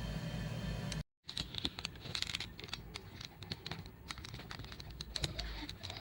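A steady low hum for about the first second, then after a brief cut, a run of quick irregular clicks and rustles of hands handling small parts.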